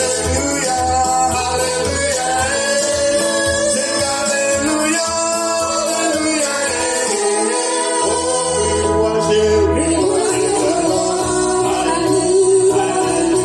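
Live gospel worship music: singing voices over a band with a steady bass line.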